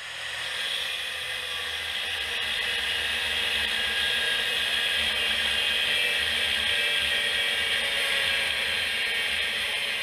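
A machine whirring steadily, coming up to speed in the first second and then holding an even pitch.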